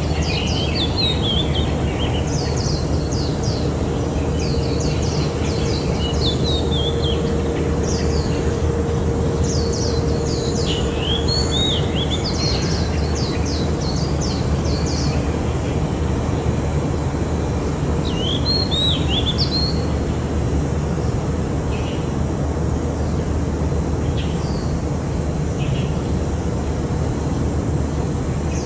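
Oriental magpie-robins chirping in quick high bursts with short falling calls, busiest in the first dozen seconds and again briefly later, over a steady low background rumble.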